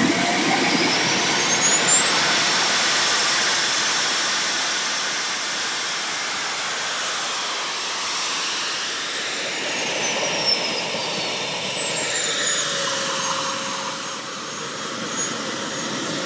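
Model jet turbine engine running at high pitch: a whine climbs as it spools up over the first few seconds, holds, then winds back down about halfway through over dense exhaust roar.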